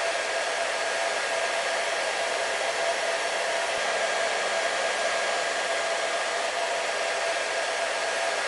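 Hair dryer running steadily, an even rushing hiss of blown air with a constant motor whine on top.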